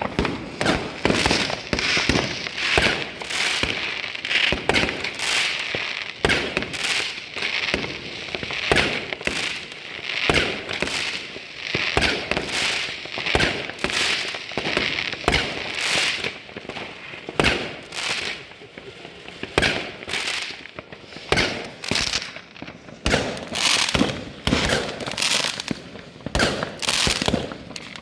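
Fireworks and firecrackers going off all around: a dense, irregular run of bangs, several a second, over a steady crackling.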